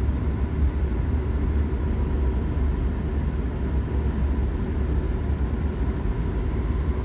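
Steady low rumble of a car's engine and road noise heard from inside the cabin while driving, with no sudden events.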